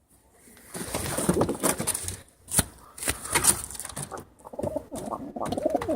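Birds calling, starting about a second in: a dense, irregular run of low calls.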